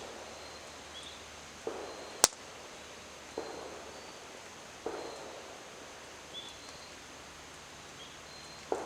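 Distant gunshots, a dull thud with a short fading tail every second and a half or so, over a quiet outdoor background. A single sharp crack from the campfire about two seconds in is the loudest sound.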